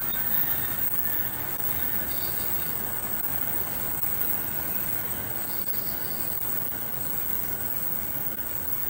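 E7 series Shinkansen train passing by, a steady rushing noise that holds at one level throughout.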